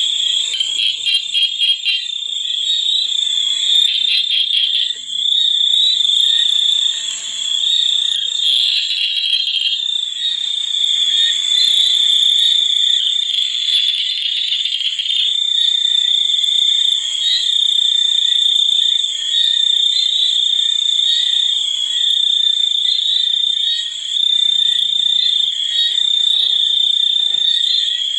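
Steady, high-pitched night chorus of calling insects and frogs, with a rapid pulsing trill in the first few seconds.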